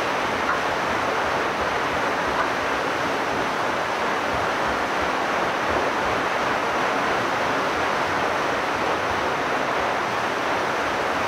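Water rushing steadily at a water mill's wheel and mill stream, an even, unbroken rush.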